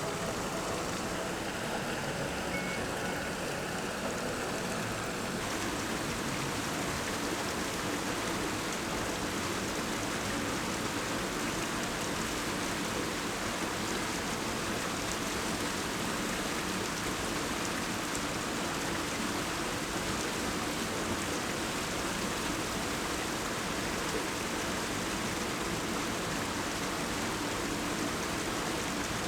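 Steady rush of a waterfall pouring into a creek pool, an even hiss of falling water with no change in level.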